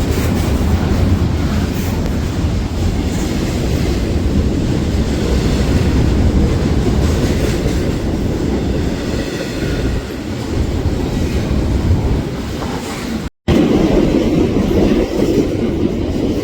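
A train rolling past, a steady loud rumble of wheels on rail. The sound cuts out completely for an instant about thirteen seconds in, then carries on.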